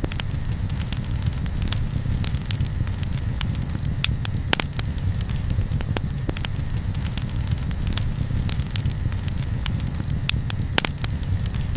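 Campfire crackling: frequent sharp pops and snaps over a low, steady rumble of burning. A faint, short high chirp repeats about once a second.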